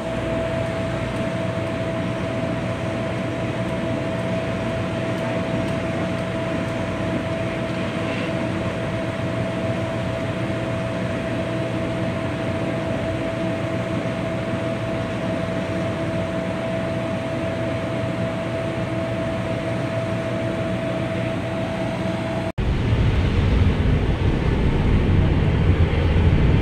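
Steady machinery drone aboard a tour boat: an even hum with a steady whining tone, like engine and air-conditioning noise. About three-quarters of the way through it cuts abruptly to a louder, rougher low rumble.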